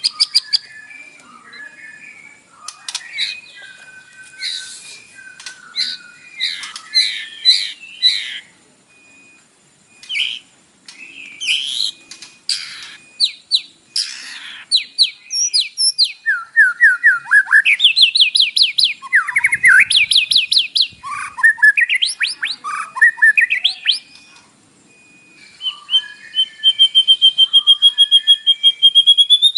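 White-rumped shama (murai batu) singing a varied song full of mimicked phrases: sharp clicking notes and short whistles at first, then fast repeated trills from about halfway, ending in a long rising trill.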